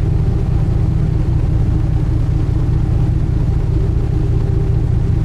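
Engine of a sightseeing boat under way, a loud, steady low drone that holds even throughout.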